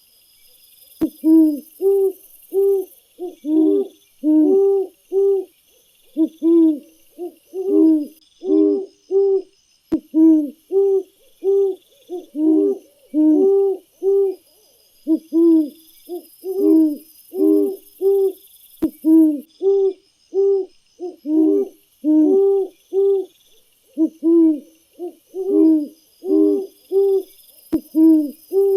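A bird giving short, low hooting calls over and over, in quick runs of two to four notes, with a faint high chirring behind them.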